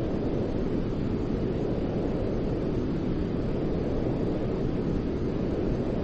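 Steady, unchanging white-noise track for lulling a baby to sleep: a deep, even rush with most of its weight in the low end, like a muffled rumble.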